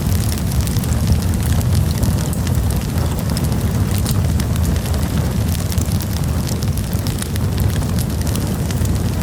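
Campfire burning, with frequent small crackles and pops of the wood over a steady low rumble.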